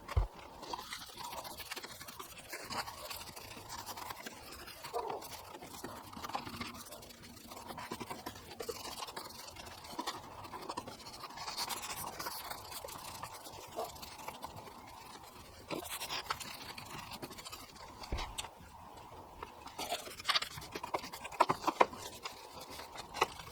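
Detailing brush scrubbing engine-bay parts: an irregular, scratchy rustle, with a few sharper knocks near the end.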